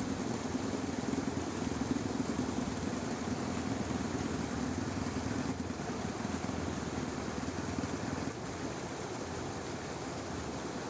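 Steady engine hum of a motor vehicle over a steady outdoor hiss, dropping quieter about eight seconds in.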